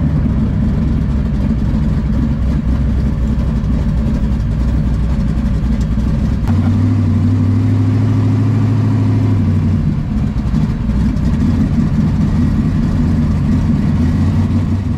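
A car engine running steadily at idle, picking up to a higher steady note about six and a half seconds in and settling back down near the ten-second mark.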